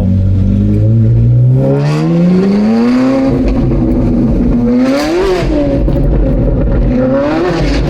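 Loud, straight-piped V8 of a Ferrari 458 Spider with race headers, revving up under acceleration for about two seconds, then holding with two quick rev spikes, one midway and one near the end.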